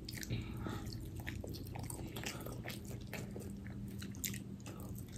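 Quiet chewing and biting on fried chicken and French fries, with irregular soft crunches and mouth clicks.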